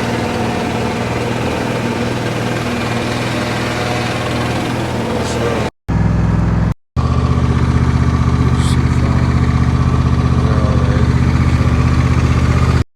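An engine running steadily at an even pitch, broken off abruptly twice by short silences partway through.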